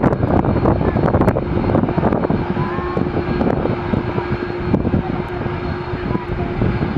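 Aircraft engines running loud and close, a dense crackling rumble with a steady hum held through it, as a plane takes off or lands.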